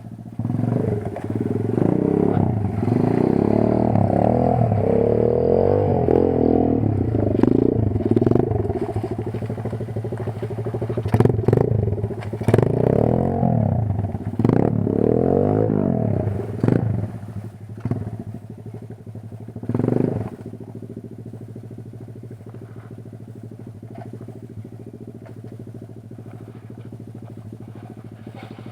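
Kayo 140 pit bike's single-cylinder four-stroke engine revving up and down under riding load, then settling to a steady, quieter run, like idling, from about 21 seconds in.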